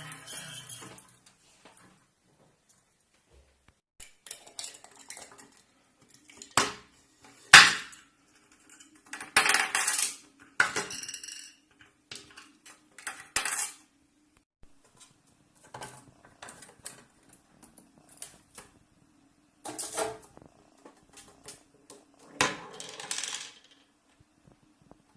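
Clattering of dishes and cutlery: irregular clinks and knocks in several bursts with quiet gaps between, the loudest clatter about a third of the way in.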